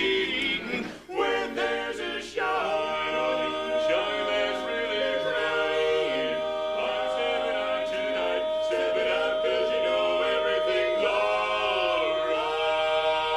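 Male barbershop quartet singing a cappella in close harmony. A long held high note rings over lower voices that move through changing chords, building to the closing chord of the song.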